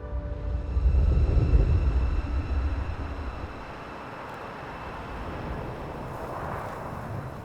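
A motorcycle's low rumble swells for about two seconds, then settles into a steadier rushing wind and road noise.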